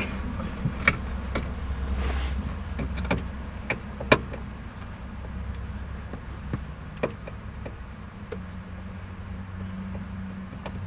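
Scattered clicks and light knocks of a hand tool being fitted to and turned on the bolts under a car's steering column, at uneven intervals over a low steady hum.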